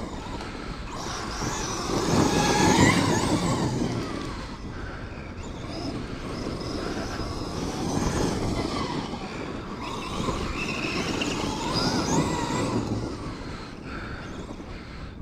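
Kyosho USA-1 Electric Edition RC monster truck driven in bursts over dirt, its electric motor whining up and down in pitch with the throttle over the noise of the tyres. The loudest surges come about two to three seconds in, around eight seconds and around twelve seconds.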